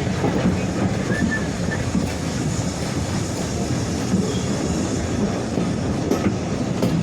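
Railway train running along the track: a steady rumble with wheels clattering over the rail joints.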